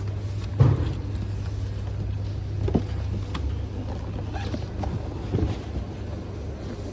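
Steady low rumble of a vehicle, with three short knocks: about half a second in, near the middle, and after five seconds.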